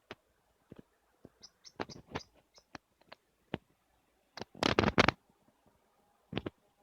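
Irregular sharp clicks and knocks from hands-on repair work, with a louder clatter of several knocks about four and a half seconds in.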